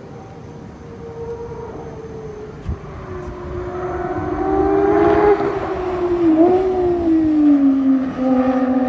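Gordon Murray T.50's naturally aspirated Cosworth V12 running on track, its note growing louder, with a brief blip about six seconds in, then falling in pitch near the end.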